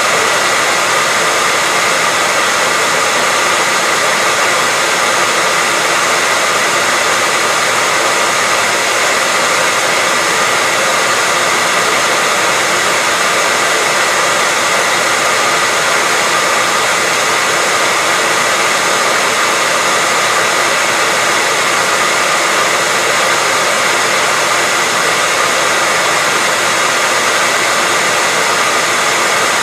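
Hair dryer running steadily: an even, unbroken blowing hiss with a faint steady whine on top.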